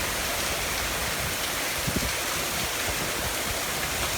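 Heavy thunderstorm rain mixed with hail pouring down, a steady dense hiss, with a single low thump about two seconds in.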